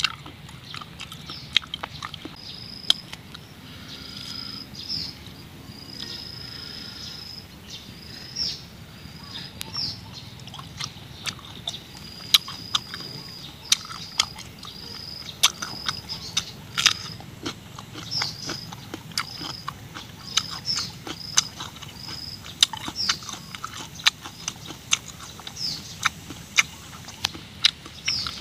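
Close-up crunching and wet chewing of raw cucumber, with sharp bites and mouth smacks throughout. A high chirping call repeats in the background.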